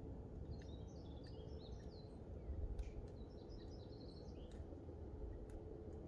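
A small songbird singing two short, quick twittering phrases, one soon after the start and one just past the middle, over a steady low outdoor rumble.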